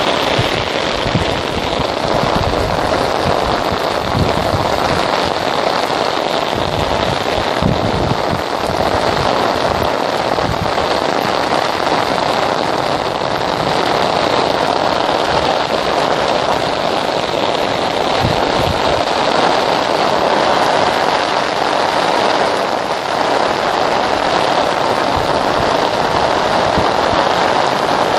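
Torrential rain pelting a paved road and its flooded verge: a loud, dense, steady hiss of heavy rainfall on wet ground and puddles.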